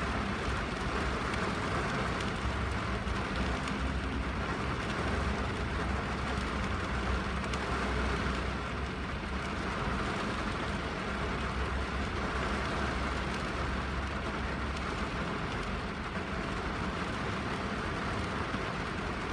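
Steady rain falling on a car's roof and windows, heard from inside the cabin, an even unbroken hiss with a constant low rumble underneath.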